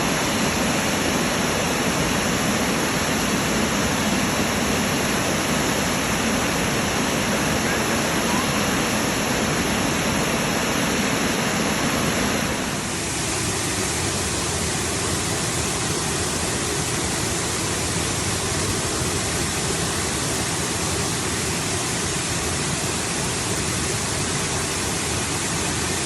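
Waterfall rushing: a steady, dense roar of falling water. About halfway through the sound changes abruptly to a thinner, hissier rush.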